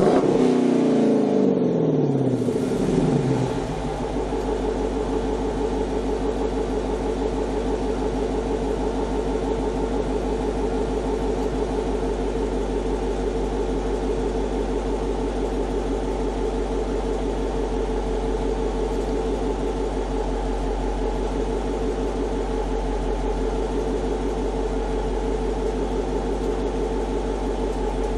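2009 Dodge Challenger R/T's 5.7-litre HEMI V8 through JBA shorty headers and a Corsa Xtreme cat-back exhaust, its revs falling away from a throttle blip over the first few seconds and then idling steadily.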